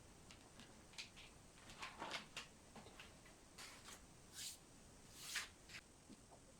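Faint handling noise: scattered small clicks and ticks, with two short swishes about four and a half and five and a half seconds in.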